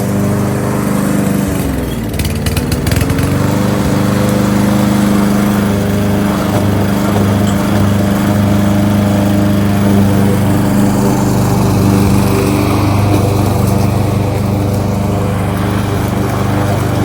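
Kohler XT-675 single-cylinder engine on a Yardworks push lawnmower, running steadily. About two seconds in, its speed dips briefly and recovers about a second later.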